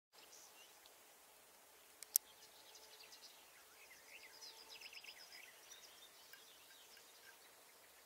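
Faint birdsong: scattered high chirps and short trills over a quiet background. Two sharp clicks about two seconds in.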